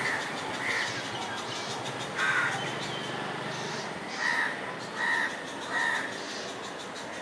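A bird calling: about five short calls, a faint one early, a louder one a little over two seconds in, then three in a row less than a second apart.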